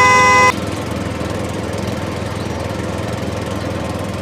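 A horn toot cuts off about half a second in, and then a small motor runs with a steady, even hum.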